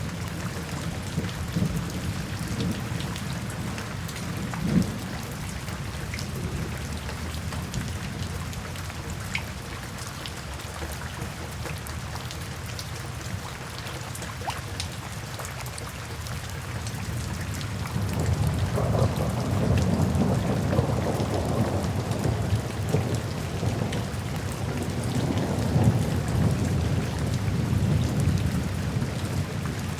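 Steady rain with scattered drop ticks, and thunder rolling underneath; about two-thirds of the way in a low rumble of thunder swells up and keeps rolling.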